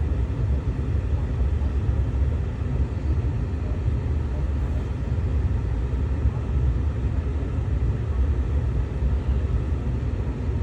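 Car running, a steady low rumble of engine and road noise that does not change.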